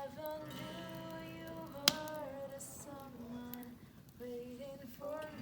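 A woman singing softly over an acoustic guitar. One sharp click about two seconds in.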